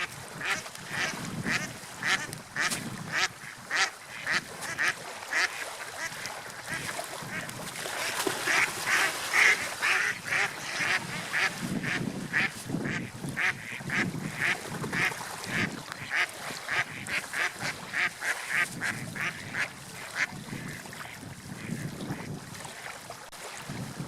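A flock of waterfowl calling, with many short calls in quick succession, about two or three a second, over a low rumble.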